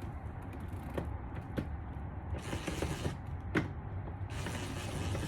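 Hand work on a car door's trim and fittings: a few sharp clicks and knocks of parts, the loudest about two-thirds of the way in, with creaking and rustling between, over a steady low hum.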